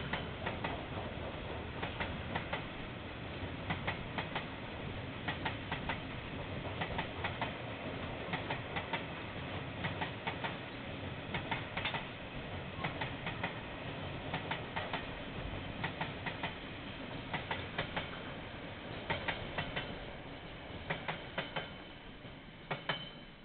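Kiwirail train rolling past, its wheels clicking over the rail joints in pairs and triples about once a second over a steady rumble. The sound fades just before the end as the last wagons pass. It is heard through a security camera's microphone.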